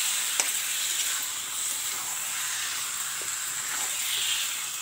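Marinated chicken and potatoes sizzling in masala in a kadai while a metal spatula stirs and scrapes them, with a sharp click of the spatula against the pan about half a second in.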